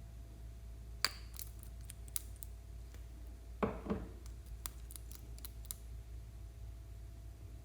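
A few sharp small clicks spread out, with one short crackling rustle a little over halfway through: hands working makeup and tools at a slime table.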